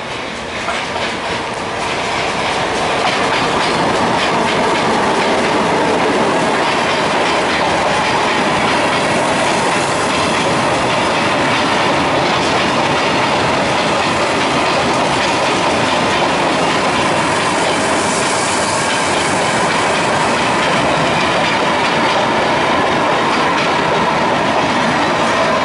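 Track-renewal work train rolling past, its wagons' wheels clattering over the rail joints with a steady rhythm and some wheel squeal. The sound swells over the first few seconds, then holds loud and steady.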